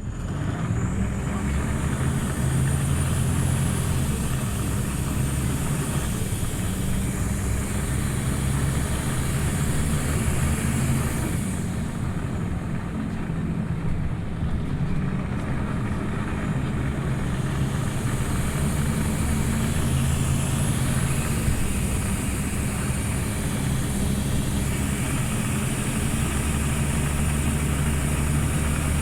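Scania OmniLink CL94UB city bus's diesel engine pulling away and accelerating. The engine note steps in pitch several times as it changes gear. A faint high whine rises twice as the bus gathers speed.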